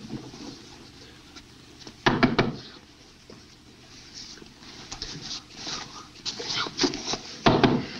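Knocking on a wooden door: a quick loud burst of knocks about two seconds in, then scattered knocks that build to another loud burst near the end.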